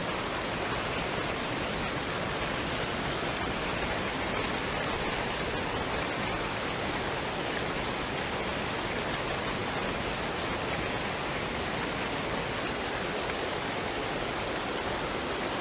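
Waterfall and stream running water, a steady, even rush with no change.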